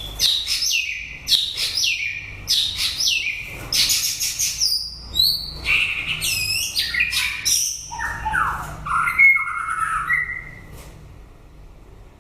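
White-rumped shama singing a fast, varied song of clear whistled phrases, quick slurs and sharp notes. It falls silent near the end.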